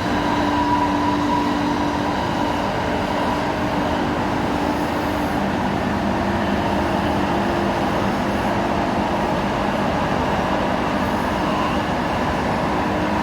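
A 1996 AnsaldoBreda Ankaray light-metro car running on its rails: a steady rumble with a few held motor tones that fade and return.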